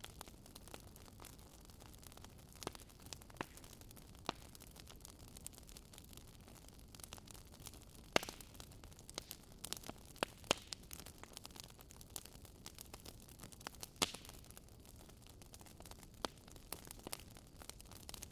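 Wood campfire crackling, with irregular sharp pops and snaps, the loudest about eight and fourteen seconds in, over a steady faint rush of the river beside it.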